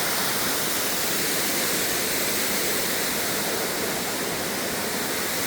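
A rainforest waterfall's steady rushing noise, with no breaks or changes.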